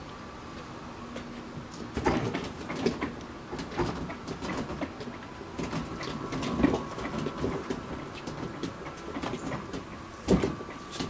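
A refrigerator being moved down a slope, rattling and scraping with irregular knocks, the loudest about two seconds in and again near the end.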